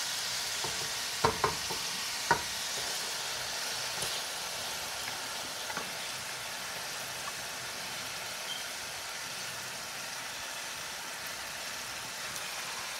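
Browned onions and whole spices sizzling steadily in hot oil in a steel pot as raw chicken pieces go in, the sizzle easing slightly. Three sharp knocks come about a second in, just after, and about two seconds in.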